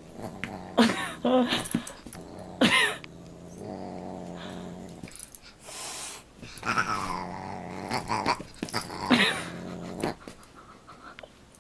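Dog growling, with several short cries that rise and fall in pitch, one sliding down near the middle.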